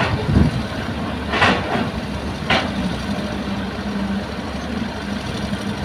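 Heavy diesel engine of earth-moving machinery running steadily with a low hum, and two short hisses about a second apart early on.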